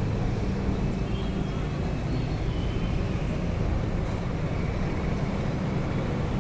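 Electric locomotive-hauled train running, a steady low rumble with no horn.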